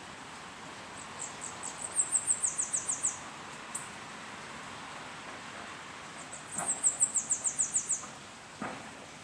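A small songbird singing twice: a very high, rapid run of repeated notes that speeds up, with the last notes sliding down in pitch. Each song lasts about two seconds, the first a second or so in and the second about six seconds in.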